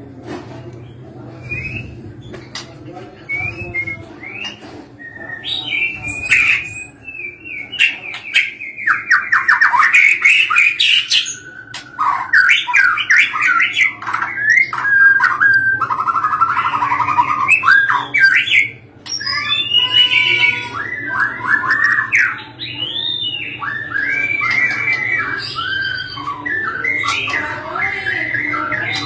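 White-rumped shama singing: a long, varied run of whistled phrases, rapid trills and harsh notes, softer for the first few seconds and then loud. A steady low hum runs underneath.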